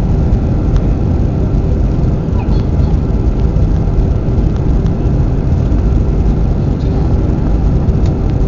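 Steady cabin noise inside an Airbus A320 airliner: a constant low rumble of the engines and air rushing past the fuselage, with a faint steady hum above it.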